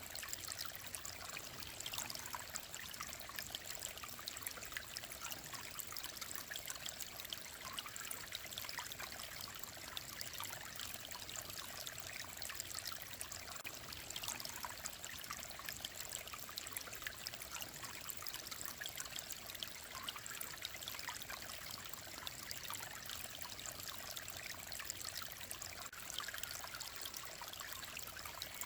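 Mountain stream flowing steadily, a continuous trickling, babbling rush of water.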